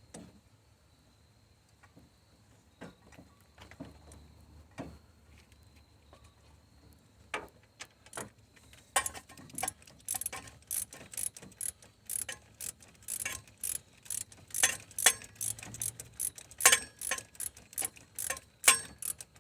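Hand ratchet wrench clicking as bolts are worked loose: a few scattered clicks at first, then rapid, steady clicking strokes from about halfway on.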